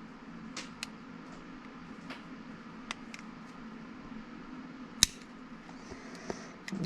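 Small clicks and taps of plastic parts as the choke lever is pried out of a Husqvarna 353 chainsaw, with one sharper snap about five seconds in, over a steady low hum.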